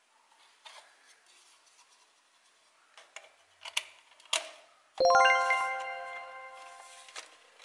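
Small clicks and rubs of hard plastic toy parts being handled and pressed together, followed about five seconds in by a single bright chime that strikes loudly and rings out, fading slowly.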